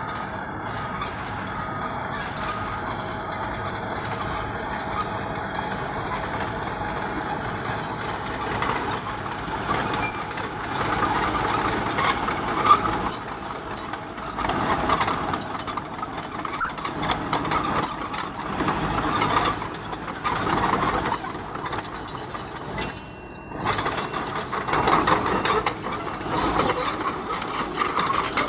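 Bulldozer's diesel engine running as the machine pushes stone. It is steady at first, then louder and rising and falling from about a third of the way in, with a brief dip about four fifths of the way through.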